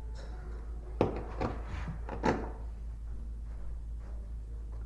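Plastic pop bottle crackling as it is handled and worked with a razor blade: a few sharp cracks between one and two and a half seconds in, then quieter rustling.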